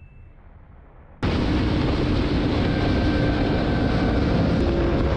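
A loud, steady vehicle roar with wind noise cuts in suddenly about a second in, after a quiet start.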